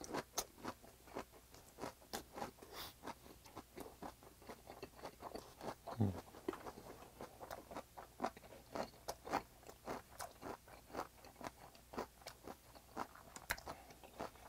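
A person chewing a mouthful of firm, springy stir-fried swordtip squid (hanchi) fin: faint, irregular chewing clicks a few times a second, picked up close on a clip-on microphone.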